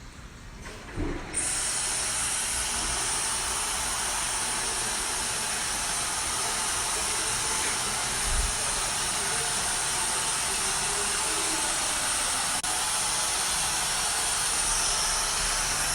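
A steady hiss that starts suddenly about a second in and holds evenly.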